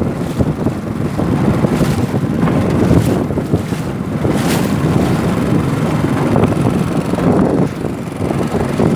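Strong wind buffeting the microphone from a canoe on choppy river water, a loud steady rumble with a few sharp splash-like bursts about three and four and a half seconds in.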